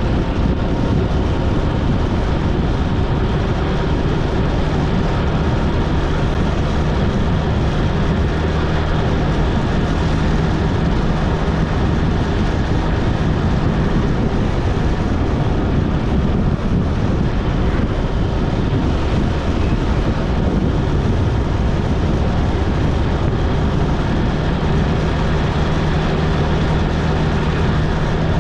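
Motorcycle engine running at a steady cruising speed, with wind and road noise throughout and its low engine note strengthening now and then.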